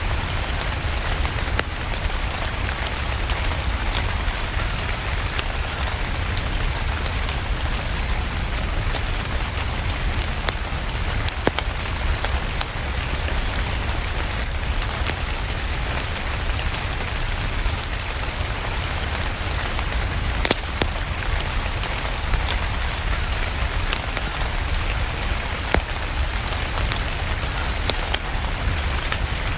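Steady rain with a low rumble underneath, and scattered sharp crackles and pops from a wood fire in a fireplace.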